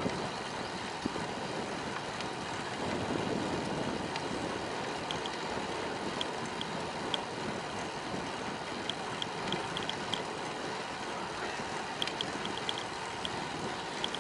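Steady rush of wind on the microphone and rolling noise from a bicycle being ridden, with scattered short high ticks, several in quick clusters.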